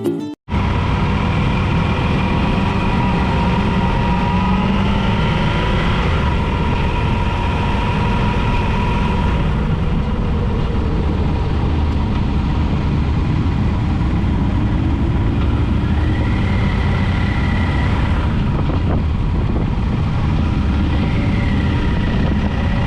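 Motorcycle running steadily at road speed, with the engine and wind noise on the microphone; a faint tone rises in pitch about two-thirds of the way through and again near the end.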